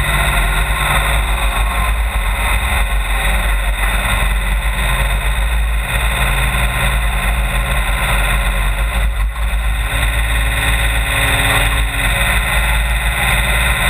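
Brush truck engine running, loud and steady, amid dense rumbling noise.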